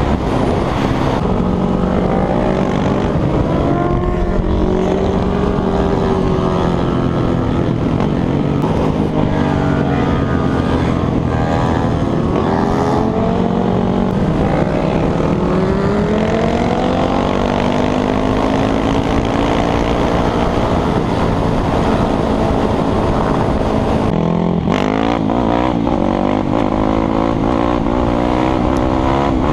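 Several motorcycle engines revving up and down as they accelerate and shift through the gears, with a constant rush of wind noise.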